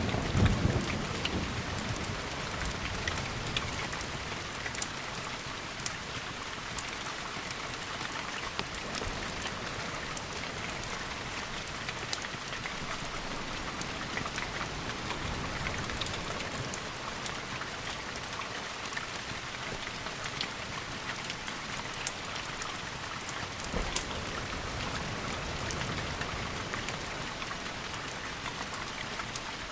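Steady rain with many scattered sharp drips, and a roll of thunder dying away in the first second.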